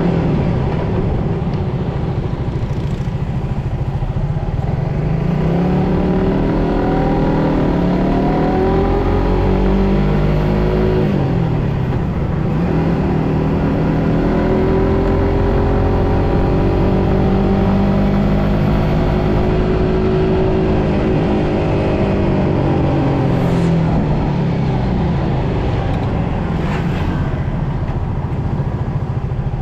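Suzuki GSX-S150's single-cylinder four-stroke engine running under way, its pitch climbing over several stretches of acceleration and dropping back in between.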